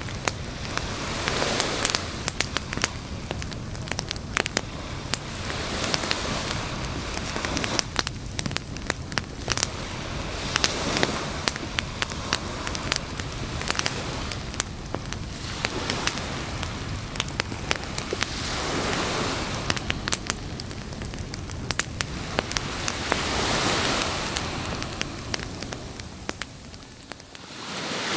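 Campfire crackling, with many sharp pops, over surf that swells and fades every four or five seconds as waves wash ashore.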